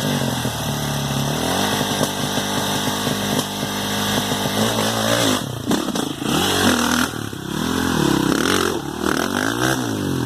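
Dirt bike engine running steadily, then revved up and down repeatedly in the second half, with several rising and falling blips.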